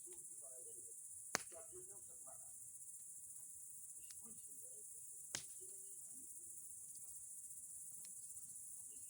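Steady high chirring of crickets, with sharp pops from a burning bonfire of boards and pine cones, the loudest about a second and a half in and again about halfway through, and a few smaller ones.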